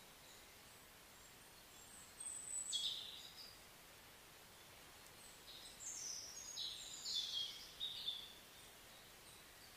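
Birds chirping faintly: a few high chirps and a quick falling whistle about two seconds in, then a busier run of chirps from about five to eight seconds, over a faint steady hiss.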